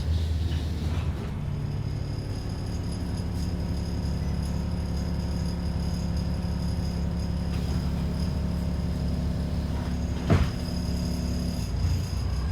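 Inside an ADL Enviro 400 double-decker bus: its diesel engine running at a steady pitch, with a single sharp knock about ten seconds in.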